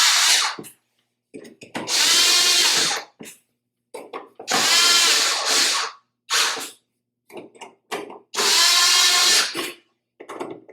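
Power drill-driver running screws into the fan's blower housing in short runs of about a second and a half each, three full runs plus the tail of one at the start, with small clicks and rattles between runs.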